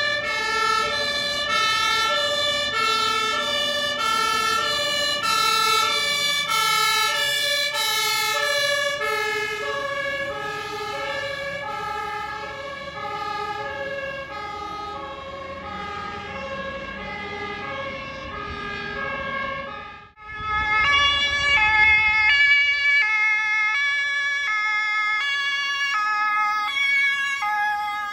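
German emergency vehicles' two-tone sirens (Martinshorn) sounding as the vehicles pass on a call-out, the alternating high-low tones of more than one horn overlapping. About two-thirds of the way through the sound cuts off sharply, then a closer, louder two-tone siren carries on over engine noise.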